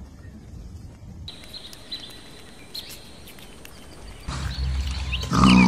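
Outdoor nature ambience: a low steady background with scattered faint clicks and a faint high steady tone. It turns louder about four seconds in, with a short, loud pitched sound near the end.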